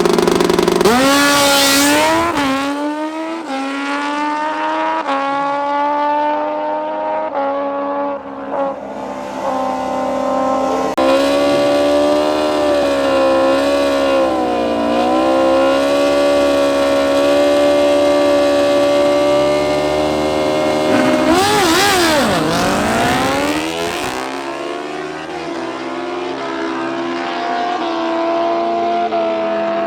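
Drag-racing motorcycle engine launching hard about a second in and accelerating through several quick upshifts. It then holds a high, wavering engine note, with a sharp swoop down and back up in pitch near the end.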